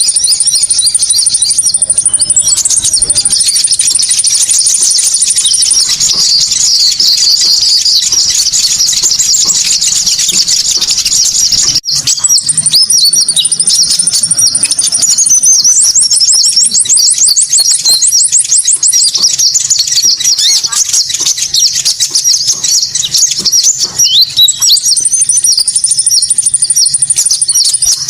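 Konin bird song played as a lure: a dense, continuous, high-pitched twittering and chirping, with thin level trills above it that come and go. Near the middle it breaks off for an instant, as at a splice in a looped recording.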